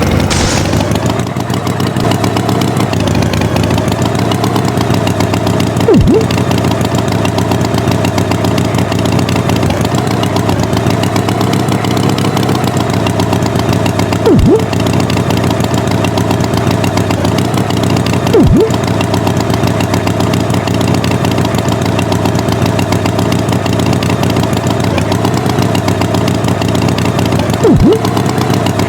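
Tractor engine running steadily, with four short, louder blips spaced several seconds apart.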